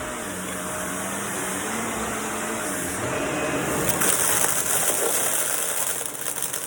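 Vacuum cleaner running: a steady motor hum under a rushing hiss of air, growing louder and brighter about four seconds in.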